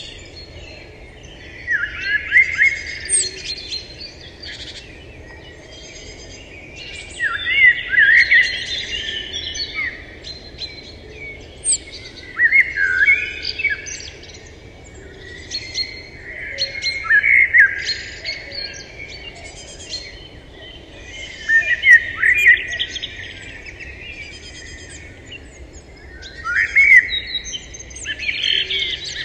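A songbird singing short phrases of quick, gliding chirps, about one phrase every four to five seconds, over a faint steady background hiss.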